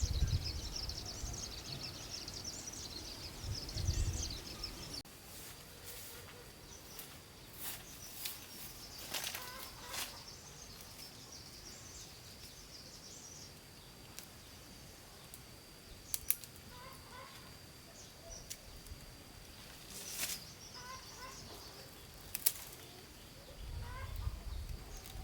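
Quiet farmyard ambience: a thin, steady high whine, scattered short knocks and clicks, and now and then faint bird chirps.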